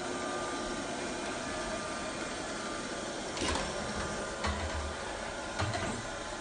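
A small machine running with a steady whir, with three short knocks about a second apart in the second half.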